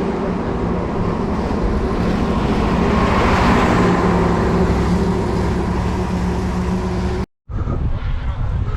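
A motor vehicle's engine running close by, swelling as it passes about three and a half seconds in, over low wind rumble on the microphone. The sound cuts off suddenly near the end.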